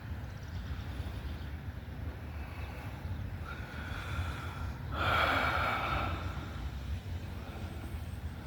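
Distant whine of an RC model plane's brushless electric motor and propeller flying overhead, swelling a few seconds in, over a steady low wind rumble on the microphone. A short breathy rush near the microphone about five seconds in is the loudest sound.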